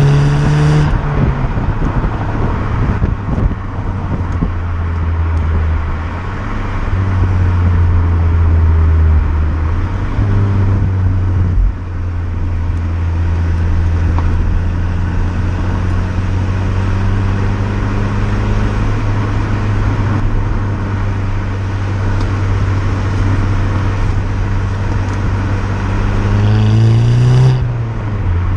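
VW Golf 6 GTI's turbocharged 2.0 TSI four-cylinder engine and exhaust while driving: a steady low drone over road noise, its pitch climbing slowly. Near the end the revs rise quickly and then drop off, as at a gear change.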